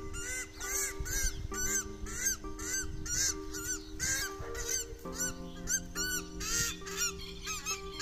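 Honking bird calls, short rise-and-fall notes repeating two to three times a second, over background music with sustained chords.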